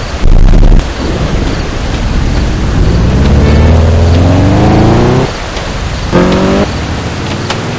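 Heavy rain and hail striking a car, a steady hiss dotted with sharp ticks, while a car engine accelerates: its pitch climbs from about three seconds in, drops suddenly at a gear change a little past five seconds, then climbs again. A short, very loud burst comes right at the start.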